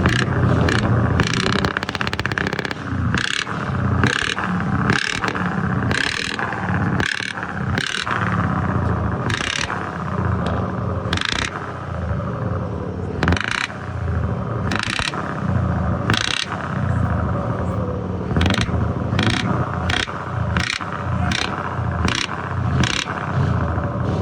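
Scania V8 diesel truck engine running, with short sharp bursts of noise breaking in at irregular intervals, one or two a second.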